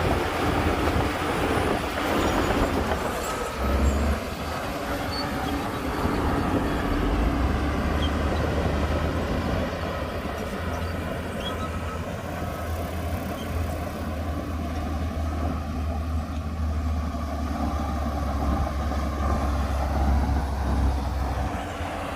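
Heavy diesel earthmoving machinery running with a steady, deep engine rumble.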